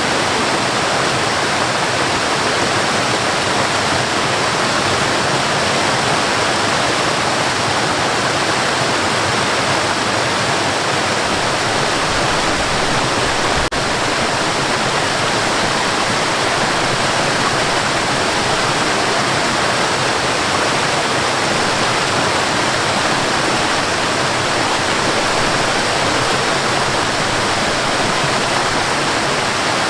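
Waterfall: a steady, even rush of falling water, with a faint click about halfway through.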